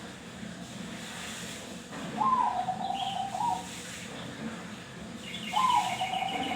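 Zebra dove (Bangkok perkutut) cooing twice, each phrase a short higher note followed by a lower rolling trill. A faint, higher chirping sounds along with the second phrase.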